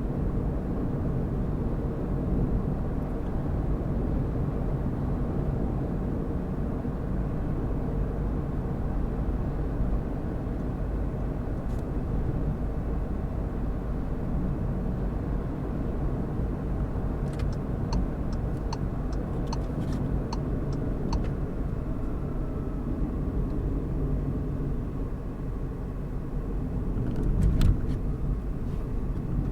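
A car driving along a road, with steady engine and tyre noise. About two-thirds of the way in comes a short run of light, evenly spaced ticks, two or three a second. Near the end there is a single louder knock.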